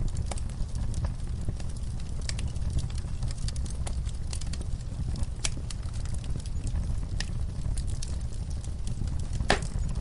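Wood fire crackling: irregular sharp pops and snaps over a low steady rumble of burning, with one louder pop near the end.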